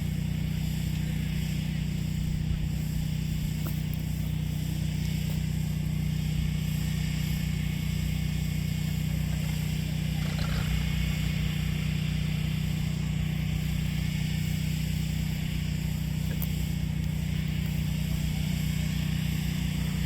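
An engine running steadily with a low, unchanging hum.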